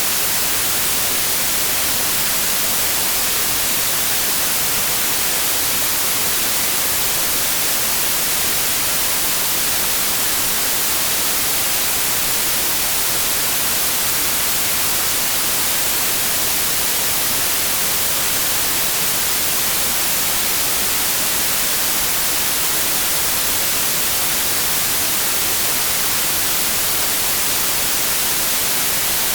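Steady synthetic white noise: an even, unbroken hiss, brightest in the high frequencies, with no changes in level.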